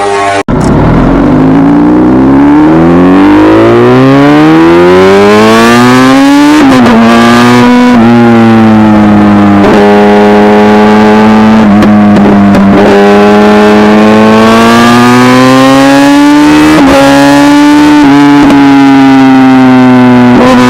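Kawasaki inline-four sportbike engine accelerating hard, its pitch climbing steeply for about six seconds after a brief dropout near the start. It then runs at high revs through a series of quick gear changes, each a short dip in pitch, the pitch creeping up again between them.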